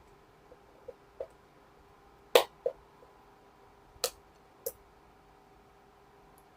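A cockatiel moving about on rope stairs: a scattering of sharp clicks and knocks, a few faint ones early and the loudest about two and a half seconds in, with a few more over the next couple of seconds.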